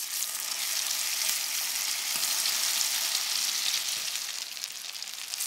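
Breaded zucchini slices sizzling in hot vegetable oil in a frying pan. The sizzle swells as a fresh slice is laid into the oil at the start, then eases slightly near the end.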